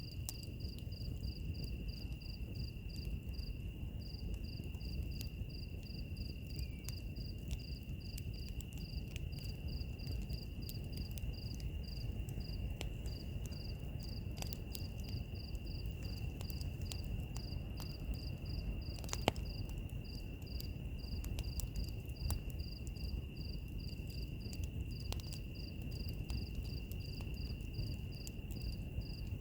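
Crickets chirping over a crackling wood fire: one steady high trill and a faster pulsed chirp of about four a second, above the fire's low rumble and scattered pops, with one sharper pop about nineteen seconds in.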